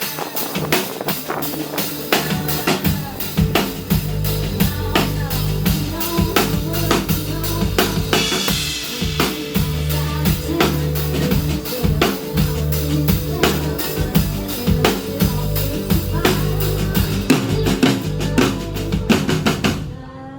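Live band music led by a drum kit, with steady kick-and-snare hits over a bass line, stopping abruptly near the end.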